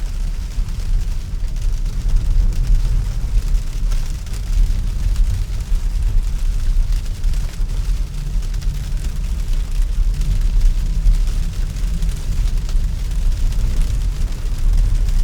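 Steady low rumble of a Tesla's tyres on a snow-packed road, heard inside the cabin, with a faint hiss higher up.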